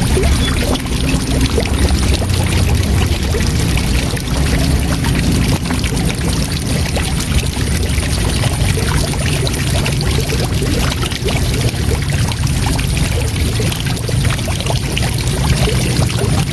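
Waterfall: a steady, unbroken rush of falling water, heaviest in a deep low rumble.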